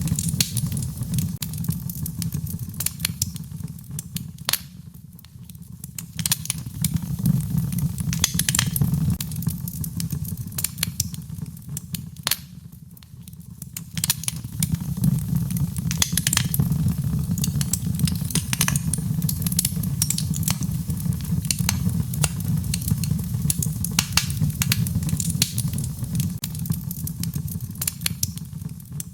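Wood fire crackling in a fireplace: irregular sharp pops and snaps over a steady low rumble, easing off briefly twice.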